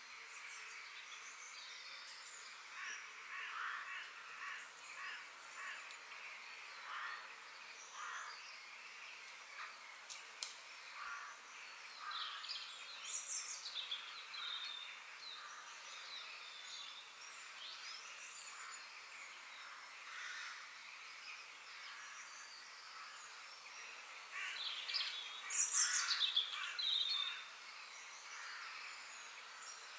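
Forest ambience of many birds calling and chirping over a steady background hiss, with a louder burst of calls near the end.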